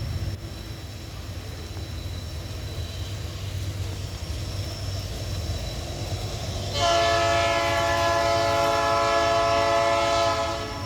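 Diesel freight locomotives rumbling low and steady as a container train arrives, then a locomotive air horn sounds one long chord-like blast of several notes, starting about two-thirds of the way in and lasting close to four seconds.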